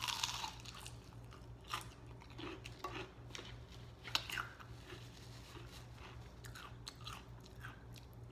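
Close-miked chewing of crispy battered onion rings: a crunchy bite at the start, then irregular crunches and mouth sounds as it is chewed, with another bite beginning near the end.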